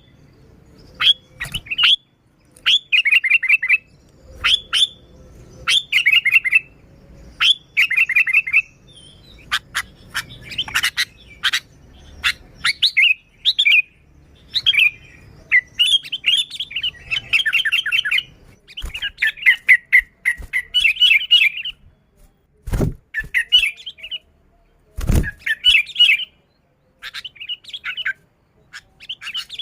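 Sooty-headed bulbul (kutilang) singing busily in short, repeated bubbling phrases with no mimicry of other birds. Two dull knocks come near the end.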